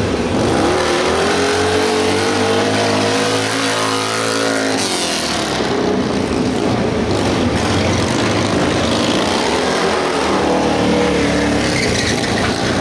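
Stunt motorcycle engine revving hard: the pitch climbs and is held high for a few seconds, then falls away about five seconds in, followed by rougher engine noise and another brief rise in revs near the end.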